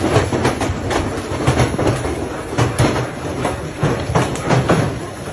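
Large hailstones falling and striking hard surfaces: a dense, irregular clatter of impacts over a steady rushing noise.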